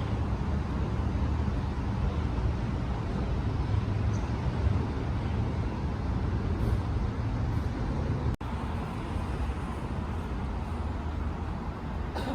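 Steady low rumble of idling or passing road vehicles and street traffic, with a brief break in the sound about eight seconds in.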